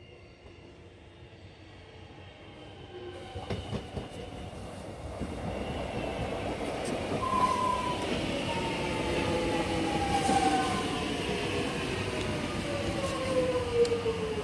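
Electric suburban metro train coming in along the platform, its running noise growing louder over the first several seconds, with a whine that slides steadily down in pitch.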